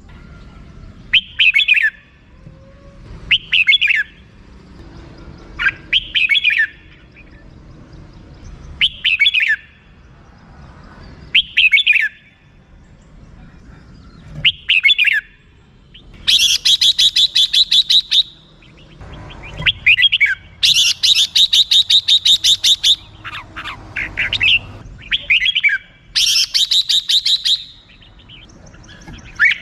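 Red-whiskered bulbul calling: short call notes about every two to three seconds, then, from a little past halfway, three bursts of fast rattling 'rik' chatter, each lasting one to two seconds.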